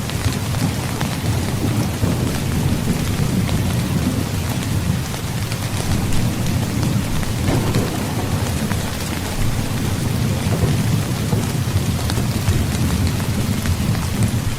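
Heavy rain falling steadily, with low, rolling thunder rumbling beneath it.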